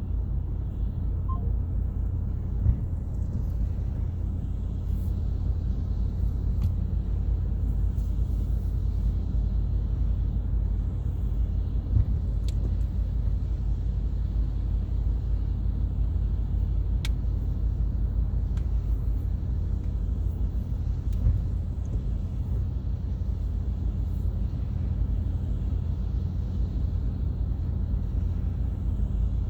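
Steady low road and engine rumble heard from inside a moving car's cabin, with a few faint clicks and small bumps.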